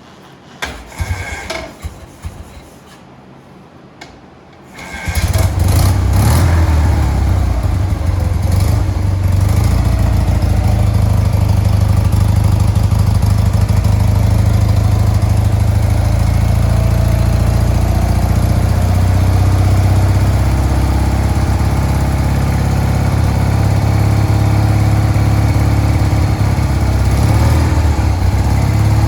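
1966 BMW R50/2's flat-twin engine starting from cold: a few short noises, then it catches about five seconds in and runs steadily without revving.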